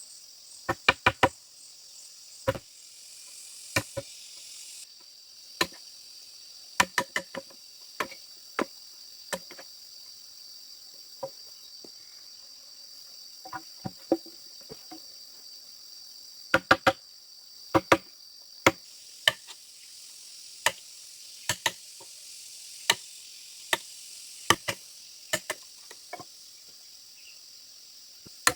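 Irregular sharp strikes of a tool on bamboo, often two or three in quick succession, over a steady high-pitched insect chorus.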